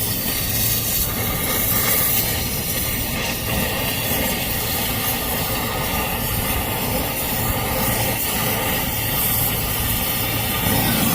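Brazing torch flame burning with a steady, even hiss.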